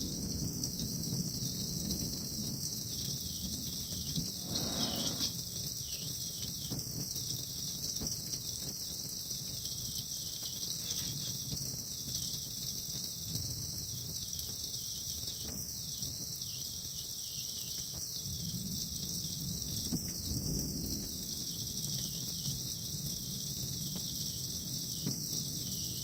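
Steady, high-pitched chorus of insects over the low, even hiss of light rain.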